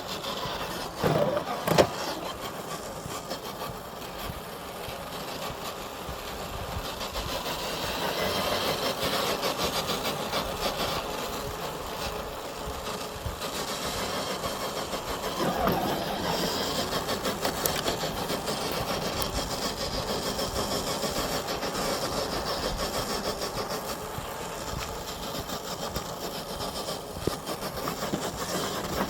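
Electric motor and geared drivetrain of an FMS FJ40 RC crawler whirring as it crawls, swelling and easing with the throttle, with two sharp knocks about one to two seconds in.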